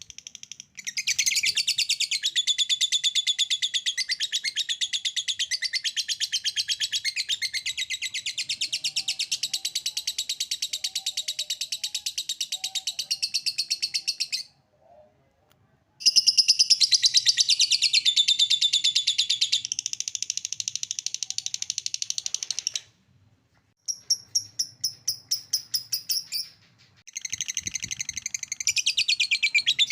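Lovebird singing its ngekek: long runs of rapid, shrill chattering trill. It breaks off briefly about halfway through and again about two-thirds of the way, then comes a few seconds of slower, separate chirps before the trill resumes near the end.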